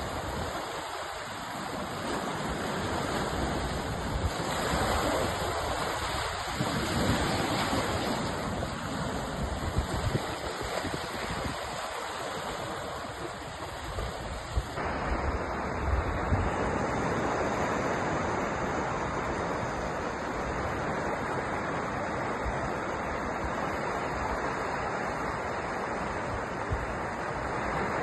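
Ocean surf: waves washing in and running back in a continuous rush, whose character shifts abruptly about halfway through.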